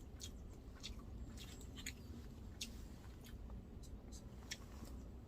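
Faint, scattered light clicks and taps over a low steady hum.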